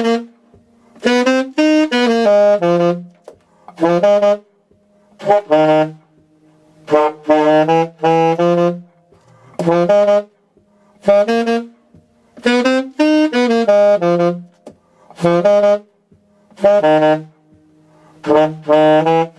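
Alto saxophone playing the low register in short repeated phrases with brief gaps between them. Each phrase is a few detached notes stepping down in pitch.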